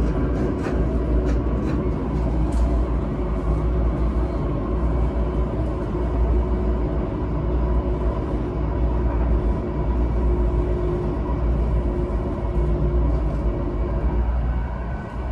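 Seibu 10000 series electric train (set 10112, with Hitachi IGBT inverter) running along the line, heard from inside the passenger car: a steady low rumble of wheels on rail with a constant hum, and a few light clicks in the first few seconds.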